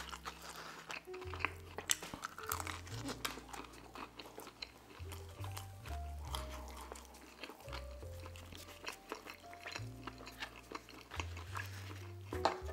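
Close-miked chewing and biting into pepperoni pizza and its crust, with many wet mouth clicks, over background music with a slow bass line.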